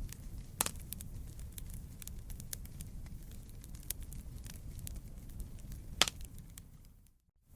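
Wood campfire burning: a steady low rumble of flames under constant crackling, with two louder pops, about half a second in and about six seconds in. The sound fades out briefly near the end.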